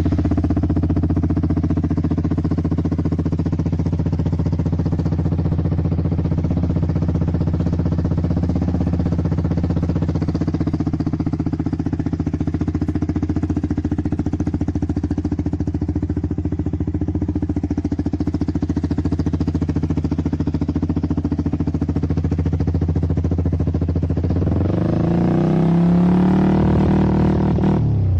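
Yamaha R15 V3's 155 cc single-cylinder four-stroke engine idling steadily through its exhaust, then revved briefly near the end.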